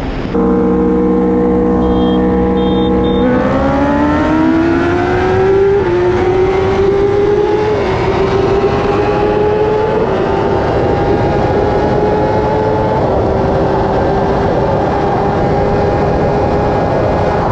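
Kawasaki ZX-10R inline-four engine at full throttle while accelerating to about 174 mph. The note holds steady for about three seconds, then climbs in pitch with a few brief dips and levels off high near the end, over a constant rush of wind noise.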